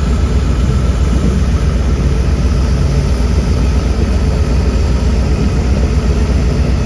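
Diesel engine of heavy construction machinery running steadily with a deep, even drone.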